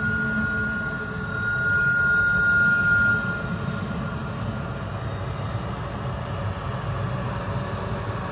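CSX double-stack intermodal freight train rolling past: a steady low rumble of steel wheels on rail, with a thin, steady wheel squeal that fades out about three to four seconds in. The mid-train diesel helper locomotive passes near the end.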